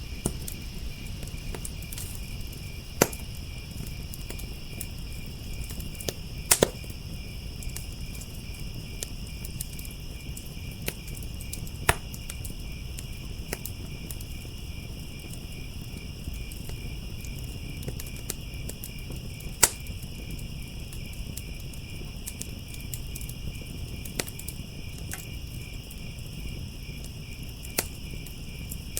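Crickets chirping in a steady, pulsing chorus over the low hiss of a fire, with sharp pops and snaps from the burning wood every few seconds.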